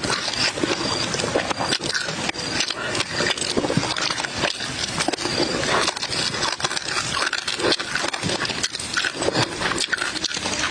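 Close-up mouth sounds of a person eating charcoal-grilled fish: steady chewing and lip-smacking, a dense run of small wet clicks and smacks.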